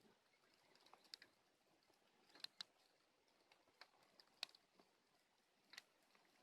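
Faint crackling of a small bonfire of dead branches: about seven sharp, irregular pops and snaps over a quiet hiss.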